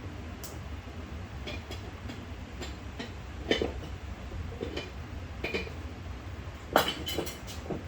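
Scattered clicks and light knocks from tools and small metal carburetor parts being handled during disassembly, over a steady low hum. The loudest knocks come about three and a half and about seven seconds in.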